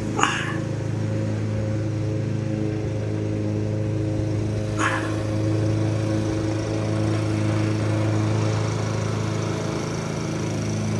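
Steady machine hum made of a few low, fixed tones at an even level. Two brief, higher-pitched sounds stand out above it, one just after the start and one about five seconds in.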